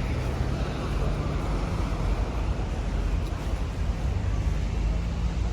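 Outdoor city street ambience: a steady low rumble of traffic mixed with wind on the microphone, with a faint engine hum early on and again near the end.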